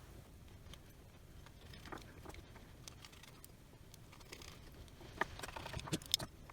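Faint clicks and light taps of small camera parts being handled during reassembly, with a quick run of sharper clicks near the end.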